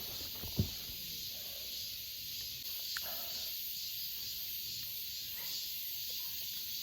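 Steady high, hissing chorus of summer insects. A dull thump about half a second in and a light click about three seconds in.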